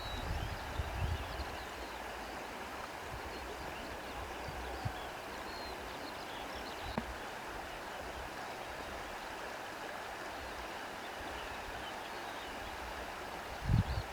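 Steady outdoor rush of water and reeds rustling in the wind, an even hiss. Low rumbling gusts come about a second in, and a louder one comes near the end.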